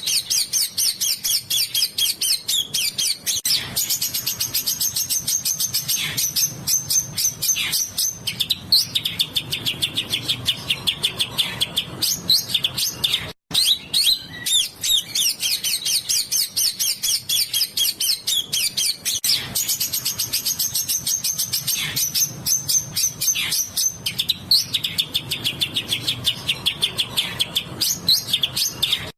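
Small songbirds singing in fast, dense trains of high-pitched chirps and trills, one phrase rolling into the next, with a momentary break about 13 seconds in.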